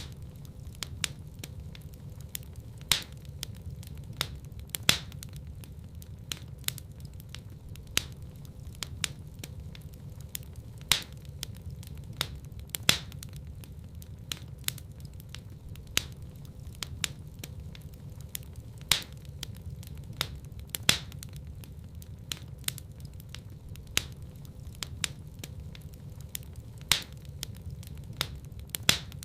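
Wood fire burning in a fireplace: a steady low rumble of flames with frequent sharp crackles and pops, the loudest coming about every two seconds.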